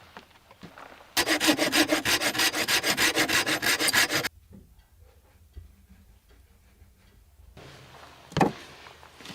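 Hand saw cutting wood with quick, even back-and-forth strokes for about three seconds, then stopping. A single knock follows near the end.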